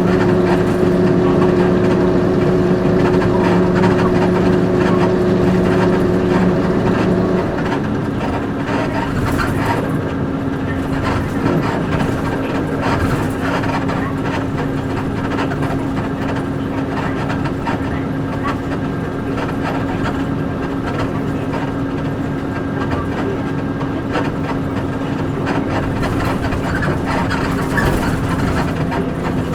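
Onboard running sound of a Nissan Diesel KC-UA460LSN one-step city bus with its PG6 diesel engine. The engine hum holds steady, then changes pitch and eases slightly in level about seven seconds in.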